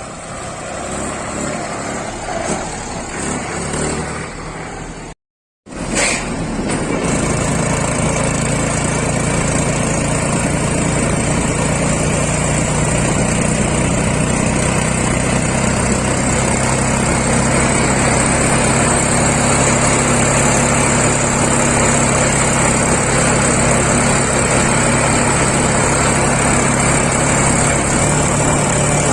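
Heavy diesel engine running steadily with a constant low hum, cut by a brief dropout to silence about five seconds in.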